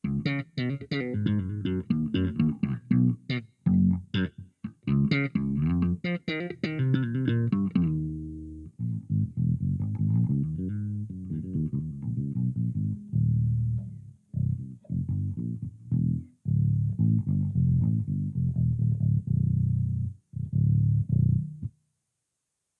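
Warwick Corvette Standard electric bass played solo, a run of plucked notes with sharp attacks. For the first eight seconds the tone is bright and twangy, then it turns rounder and darker. The playing stops about a second before the end.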